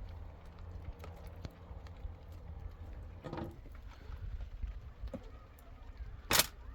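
Irregular light taps and clicks over a steady low rumble, with one sharp, loud knock about six seconds in.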